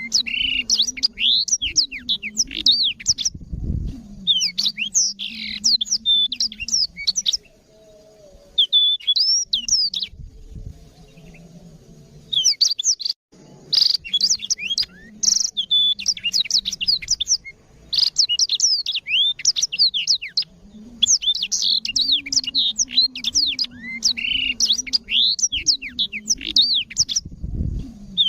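Black-throated canary (blackthroat) singing a fast, continuous song of rapid chirps and whistled trills in long bursts, broken by two short pauses.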